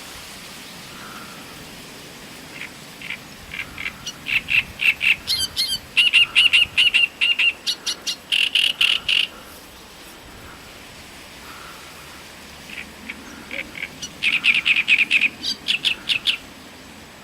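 Great reed warbler singing: two bouts of rapid repeated notes, the first from about two and a half seconds in to about nine seconds, the second starting near thirteen seconds and running almost to the end, with a pause between.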